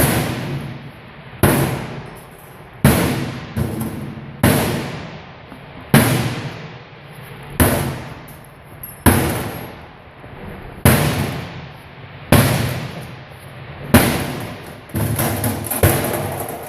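A series of loud, sharp bangs, each ringing out for about a second, about every one and a half seconds, with a quicker run of bangs near the end, as a broken washing machine is destroyed.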